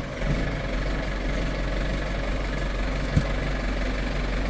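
An engine idling steadily, with one sharp knock about three seconds in.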